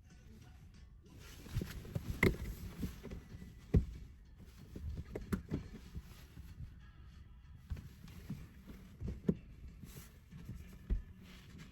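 Irregular soft thumps, knocks and rustling, as of objects being handled and set down. The sharpest knocks come about two seconds in and just before four seconds.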